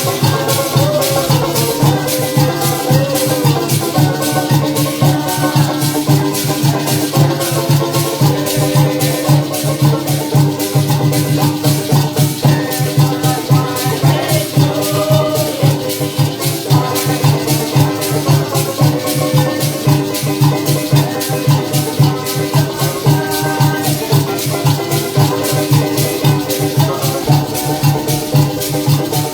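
Live parang music: maracas shaking a fast, steady rhythm over a band playing a pulsing bass line and a melody, continuous throughout.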